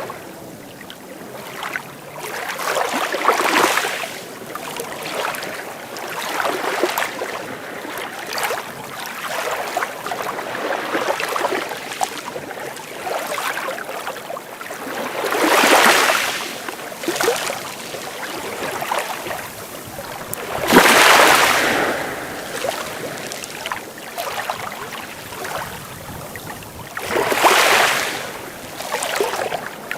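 Sea waves breaking and washing up on the shore: a steady wash of surf that swells every few seconds, with several louder breakers, the biggest a little past halfway.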